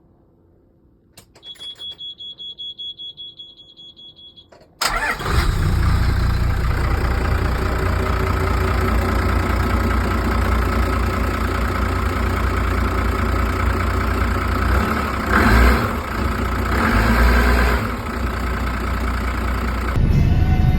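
Yamaha FC27's overhauled turbodiesel inboard engine: a warning buzzer beeps rapidly for about three seconds, then the engine starts abruptly and settles into steady running, its note swelling briefly twice near the end.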